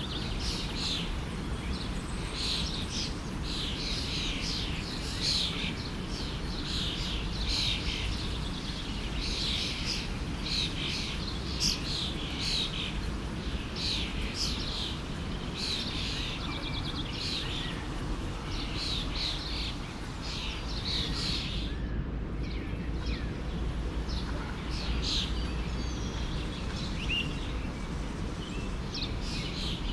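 Songbirds chirping in quick, overlapping calls over the steady rush of a flowing forest stream; the chirping thins out about two-thirds of the way through.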